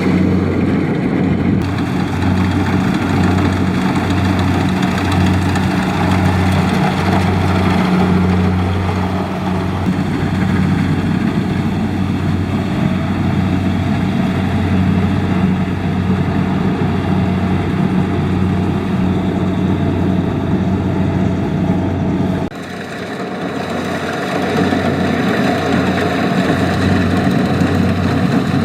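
Kubota DC70 Plus combine harvester's diesel engine running steadily under load with a low, even hum. About 22 seconds in the sound drops abruptly and changes, then builds back up.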